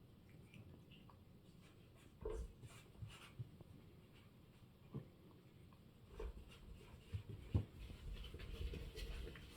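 A cat scratching and pawing at something it wants to get into: faint, irregular scratches and small taps, starting about two seconds in and growing busier in the second half.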